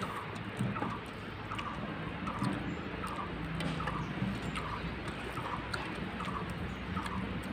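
A bird calling a short note over and over, about once every 0.7 seconds, over a low steady hum.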